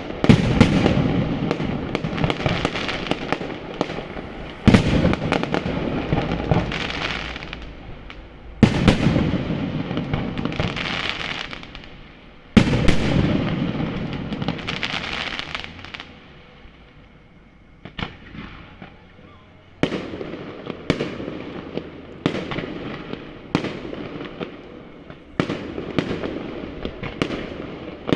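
Fireworks display: big aerial shells bursting with sharp loud bangs about every four seconds, each followed by several seconds of crackling. After a short lull past the middle, a quicker run of smaller bangs comes about once a second.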